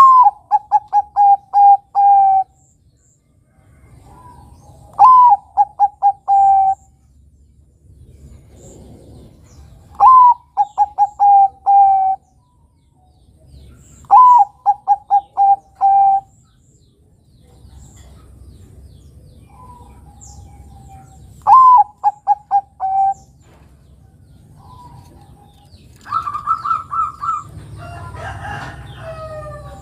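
Bangkok-strain zebra dove (perkutut) cooing, five phrases a few seconds apart. Each phrase is a high opening note followed by a quick run of short, evenly spaced coos. Near the end a higher call comes in, with other bird calls overlapping.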